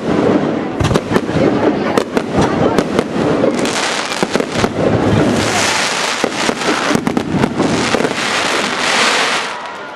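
Aerial fireworks shells bursting close by in quick succession, many sharp bangs one after another. From about three and a half seconds until near the end, a loud steady hiss runs under the bangs.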